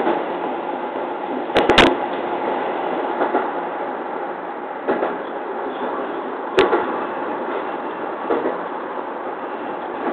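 JR East 209 series electric train running along the track, heard from inside behind the cab: a steady rumble of wheels on rail, with a sharp clack about two seconds in and another a little past the middle, and a few fainter ones.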